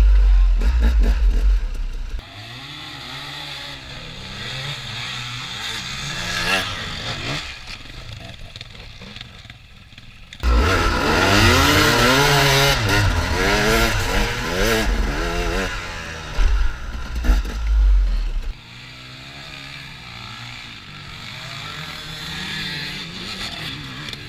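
Trail motorcycle engine revving up and down as it rides. It is loud for the first two seconds and again from about ten to eighteen seconds in, and quieter in between and near the end.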